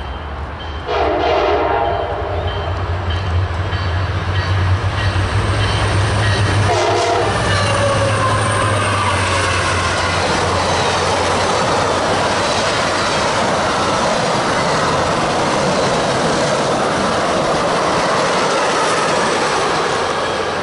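Passing train of EMD F40PH-2 diesel locomotives and office cars. The horn sounds about a second in and again briefly around seven seconds in, over the locomotive's engine drone. Then comes the steady rush and clickety-clack of the passenger cars going by at speed.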